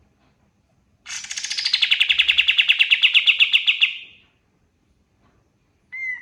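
Kapas tembak songbird singing a fast, loud trill of rapidly repeated notes about three seconds long, dropping in pitch at its start, followed near the end by one short call note.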